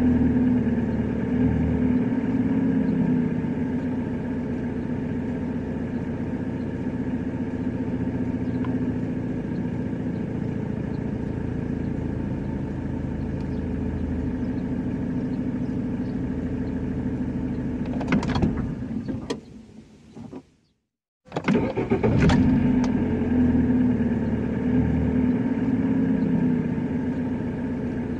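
A recorded car engine sound running steadily. About eighteen seconds in it fades out, goes silent for under a second, then starts up again with the same pattern as at the start, like a looped track.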